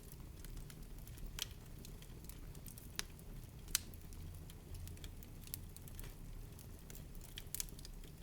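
Wood fire crackling in a fireplace: irregular sharp pops and snaps over a low steady rumble of the burning fire, with a couple of louder pops about three and four seconds in.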